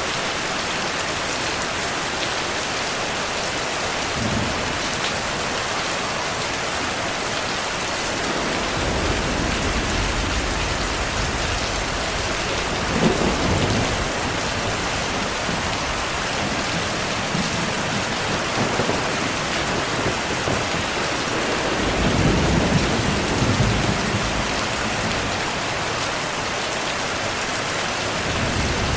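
Steady rainfall with rolling thunder. A low rumble rolls in about nine seconds in and peaks a few seconds later, and a second rumble comes about three quarters of the way through.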